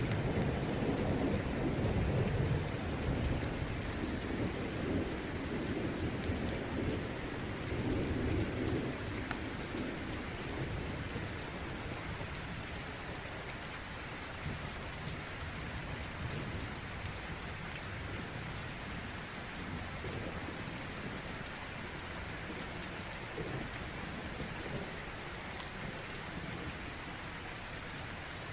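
Steady rain falling, with a low roll of thunder that fades away over the first ten seconds. Faint sharp crackles from a log fire are scattered throughout.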